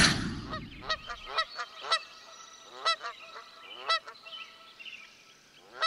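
A string of short honking bird calls, about six or seven at irregular spacing, each a brief downward-bending note. The tail of a loud whoosh fades out in the first half-second.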